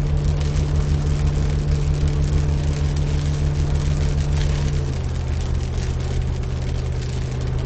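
Car engine running steadily with a low, even hum that drops a little in pitch about five seconds in.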